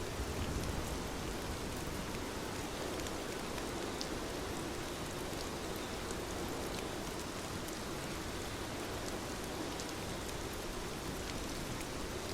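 Steady rain falling and pattering on surfaces, with a continuous rushing hiss and scattered individual drop ticks.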